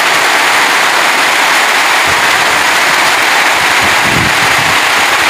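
Heavy rain falling on a zinc sheet roof, a loud steady hiss, with a few low thumps about two and four seconds in.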